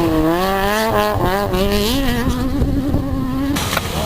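Rally car engine running at high revs, with a buzzing tone whose pitch wavers up and down as the throttle comes on and off. The sound changes abruptly near the end.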